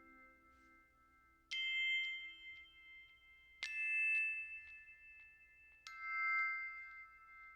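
Three struck chime-like metallic tones, each ringing out and slowly fading, about two seconds apart.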